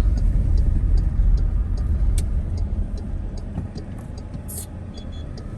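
Car driving, a low road and engine rumble that eases off through the second half, with a light steady ticking about two or three times a second.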